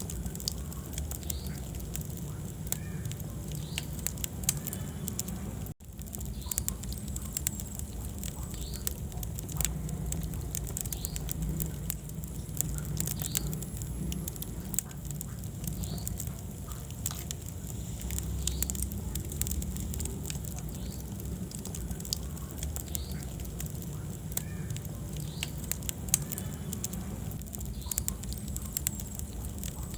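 Wood fire burning in a fireplace: a steady low rumble of flame with many quick, irregular crackles and pops. The sound cuts out for an instant a little before six seconds in.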